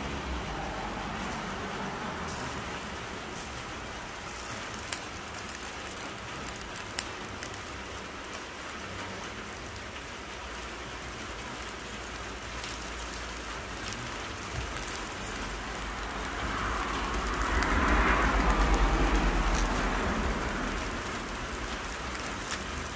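Steady rain falling and pattering on surfaces, with a couple of sharp clicks. Around three-quarters of the way through it swells louder with a low rumble for a few seconds, then eases back.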